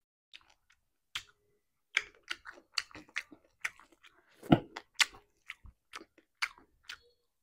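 Close-miked eating by hand: chewing with wet mouth clicks and smacks, mixed with fingers working rice and greens on the plate, in irregular short clicks. One louder, deeper thump comes about four and a half seconds in.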